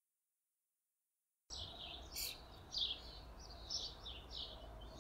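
Silence, then about a second and a half in, birds begin chirping: a run of short chirps, each falling in pitch, over a low steady rumble.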